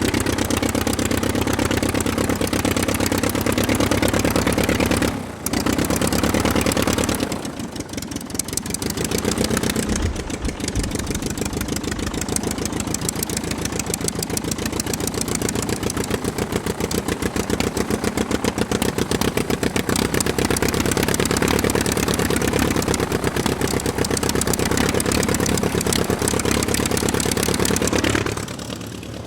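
A toy monster truck's engine-like running sound: a steady rumble with a rapid pulse, dropping away briefly about five seconds in, around eight seconds, and again near the end.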